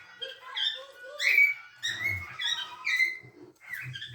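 Cockatiels chirping: a quick run of short, high calls, about two a second.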